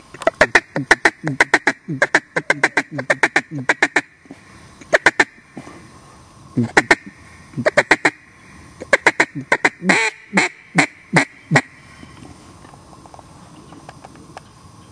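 Mallard quacking: loud, short quacks in quick runs with brief pauses, stopping about twelve seconds in.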